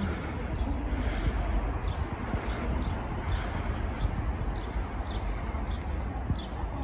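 A bird calling over and over, short high downward chirps about every half second, over a steady low outdoor rumble.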